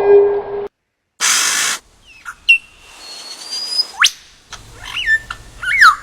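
A siren-like tone ends abruptly, and after a short gap comes a half-second burst of hiss. Then a bird's clear whistles and chirps: sliding whistles, a fast rising sweep about four seconds in, and quick up-and-down chirps near the end.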